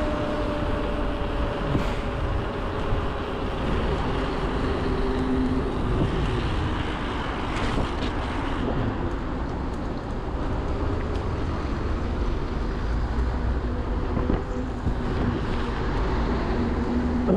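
Steady road and traffic noise heard from a moving bicycle in city streets, with faint steady whining tones underneath.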